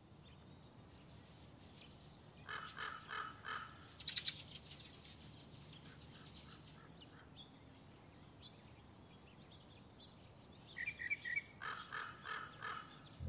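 Birds calling: two runs of four harsh calls, one a few seconds in and one near the end, with scattered higher chirps and a short trill between them over a faint steady background.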